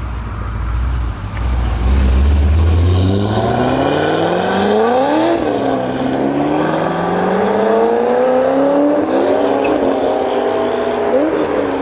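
A performance car accelerating hard away. A deep rumble gives way to an engine note that climbs steeply, drops at an upshift about five seconds in, climbs again and drops at another shift near the end.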